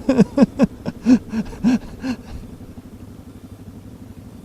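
A man's voice in short, evenly repeated bursts that trail off about two seconds in, heard through a motorcycle helmet intercom. Under it and after it comes a steady low rumble of motorcycle engine and wind.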